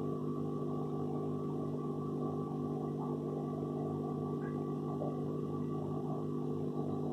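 Steady electric hum of aquarium equipment, such as a pump running, with an even stack of low tones and no change in level.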